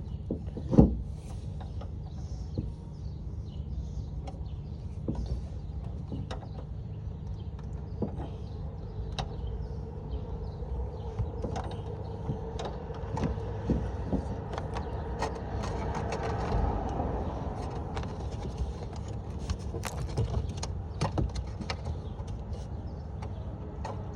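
A power drill boring into the car's body, running for several seconds midway with a steady tone that fills out near its loudest point, amid scattered clicks and knocks of handling tools and parts.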